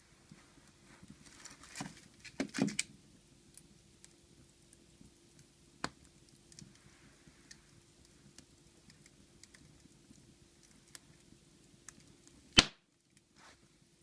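Wood fire crackling in a fireplace: scattered irregular pops over a faint steady hum, a cluster of louder pops about two and a half seconds in, and one sharp loud crack near the end.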